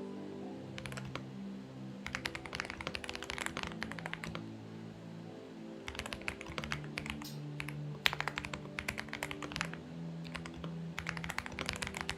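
Typing on a Xinmeng X98 mechanical keyboard: bursts of rapid keystrokes with short pauses between, one sharper key strike about eight seconds in. Soft background music with held notes runs underneath.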